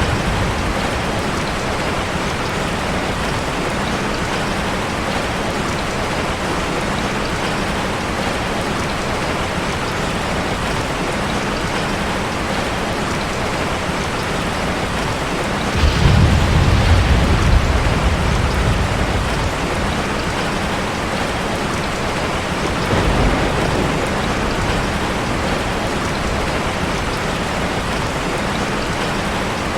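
Steady rushing of heavy falling water in an ambience recording. A deep low rumble rises about halfway through and lasts a few seconds, and a weaker one follows a few seconds later.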